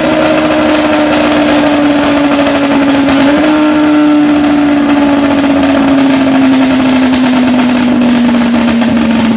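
Motorcycle with a straight-through (baffle-free) exhaust running loud at held revs, the exhaust note sinking slowly in pitch, with a brief small rise about three seconds in.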